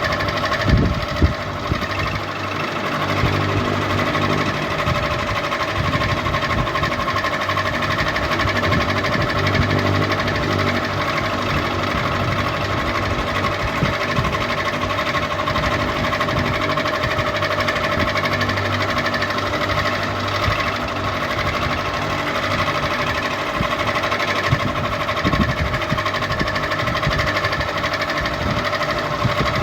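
Ceiling fan running: a steady mechanical whir with a constant hum in several tones, and a couple of brief knocks about a second in.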